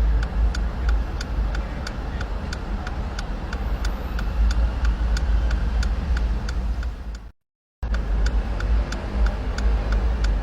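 Road-traffic rumble with a steady, even ticking about three times a second. The sound cuts out completely for about half a second around seven seconds in.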